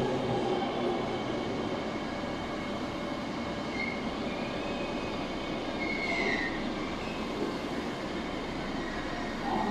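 Tobu 100 series Spacia express train at the platform: a steady rolling rumble with brief high-pitched wheel squeals about four and six seconds in.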